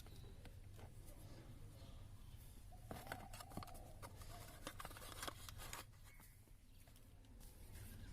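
Faint scattered clicks and handling noises over a low hum, bunched in the middle.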